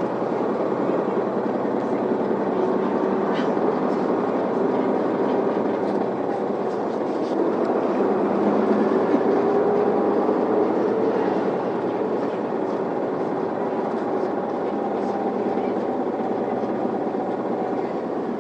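Isuzu Erga city bus (PKG model) running on the road, its diesel engine and road noise steady as heard inside the passenger cabin.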